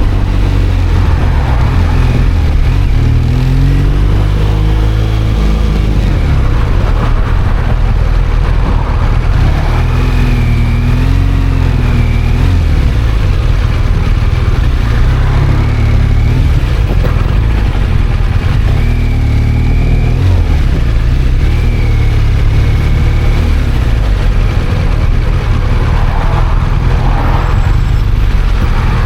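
Motorcycle riding at road speed: a steady rumble of wind on the helmet microphone, with the engine note rising and falling as the bike speeds up and eases off.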